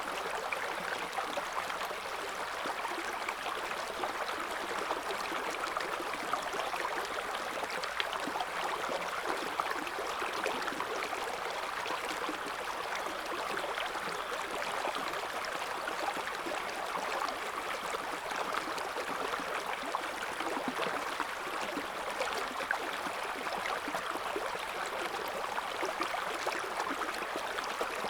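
River water flowing in a gentle current, a steady rushing and gurgling babble.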